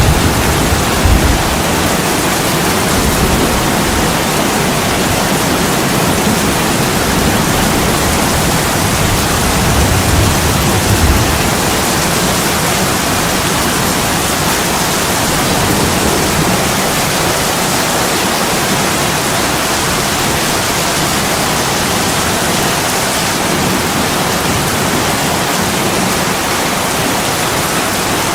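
Heavy rain pouring steadily as an even, dense hiss, with a low rumble about a second in and again around ten seconds in.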